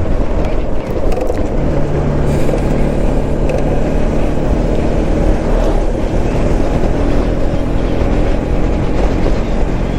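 Motorcycle engine running steadily while riding on the road, with a low rumble beneath it; a steadier engine note comes in about a second and a half in and holds.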